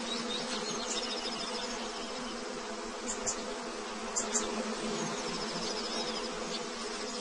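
A swarm of wasps and bees buzzing around their nest, a dense steady drone.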